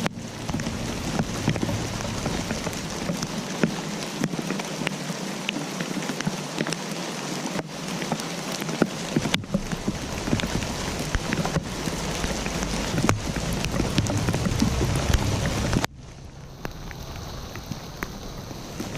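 Steady rain falling, with many individual drops ticking on a surface. A few seconds before the end the sound drops abruptly to a quieter level.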